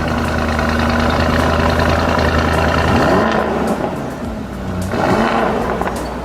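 Lamborghini Urus twin-turbo V8 running through a Fi valvetronic catback exhaust with catless downpipes. The engine note holds steady for about three seconds, then rises and falls twice.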